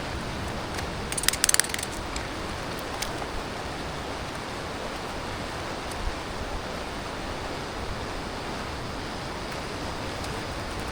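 A quick rattle of sharp mechanical clicks about a second in, then a couple of single clicks, over a steady rushing outdoor background noise.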